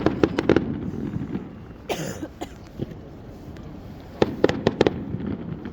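Fireworks going off: a quick cluster of sharp bangs and crackles, a short hiss about two seconds in, then another rapid cluster of bangs about four seconds in.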